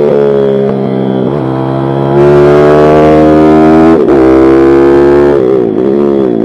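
Pit bike's small single-cylinder engine running hard, its note dipping sharply and climbing back several times as the revs drop and pick up again.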